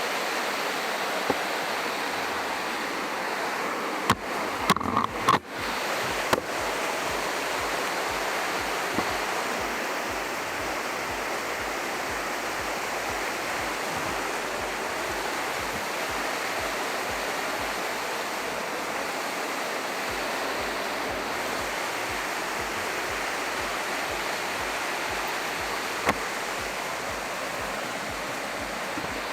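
Waterfall rushing steadily. A few sharp knocks or clicks cut through it about four to six seconds in, with single ones elsewhere.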